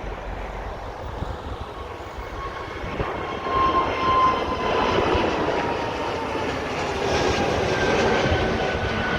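Airbus A320 jet engines at takeoff thrust as the airliner climbs out just after rotation. It is a steady rush with whining fan tones that slowly fall in pitch, growing louder about three and a half seconds in.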